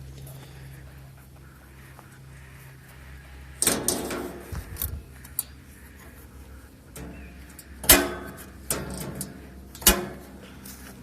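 Several sharp knocks and clatters: a cluster about four seconds in, then the loudest knock about eight seconds in and another near ten seconds, over a low steady hum.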